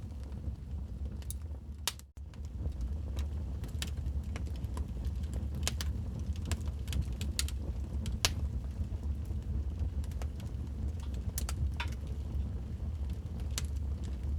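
Wood fire crackling in a fireplace: scattered sharp pops and snaps, one louder about eight seconds in, over a steady low rumble of the flames. The sound drops out briefly about two seconds in.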